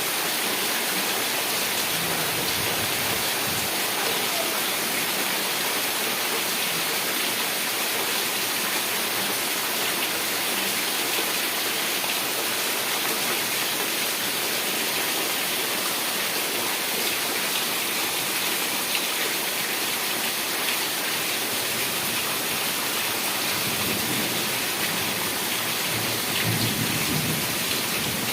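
Heavy rain falling in a steady dense hiss. In the last few seconds a low rumble of thunder comes in underneath it.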